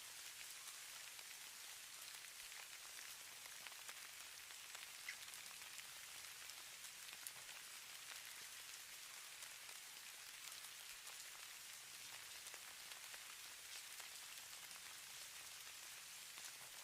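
Falling snow: a faint, steady hiss with scattered soft ticks.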